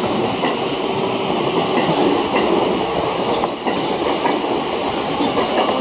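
JR East 185 series limited express electric train running through a station without stopping, with its wheels clacking over rail joints.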